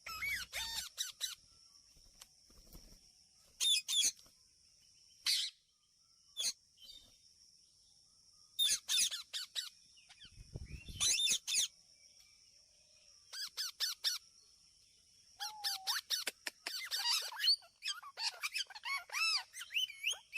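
Baby Indian ringneck parakeets calling in short bursts of shrill, wavering chirps, coming more thickly toward the end.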